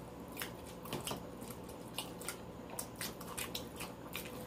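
Wet chewing and lip-smacking on a mouthful of chili dog: soft irregular clicks and smacks, several a second.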